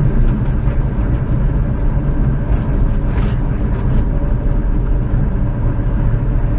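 Light propeller aircraft's piston engine running with a steady drone in cruise, heard from inside the cockpit.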